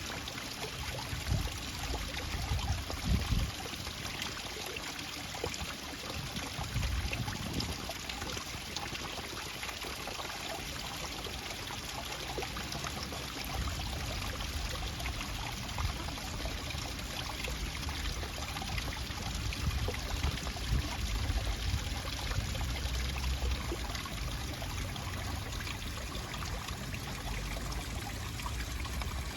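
Steady running water, like a stream trickling and pouring, with a few low rumbles now and then.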